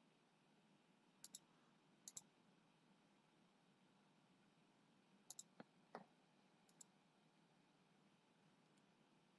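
Faint computer mouse clicks: a few quick double clicks spread over several seconds, with a couple of soft knocks about six seconds in.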